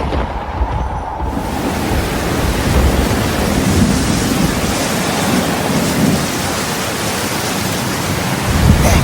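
Steady rushing noise, like heavy rain, with a low rumble underneath that fades in the middle and returns near the end.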